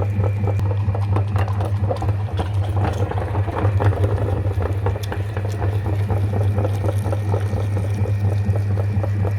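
Electric meat grinder running with a steady low motor hum, with irregular clicks over it, most of them in the first few seconds, as chocolate is fed through.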